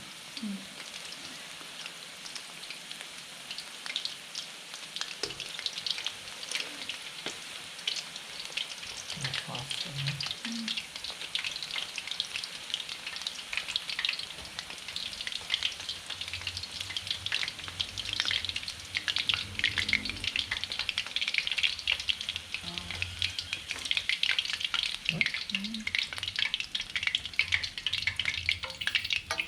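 Homemade fish balls frying in hot oil: a dense sizzle and crackle that grows louder and thicker about halfway through.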